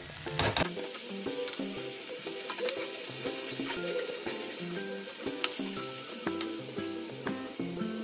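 Dill leaves (sabbasige soppu) sizzling in hot oil in a kadai as they are stirred with a steel spoon, which clicks against the pan now and then. A simple background melody plays throughout.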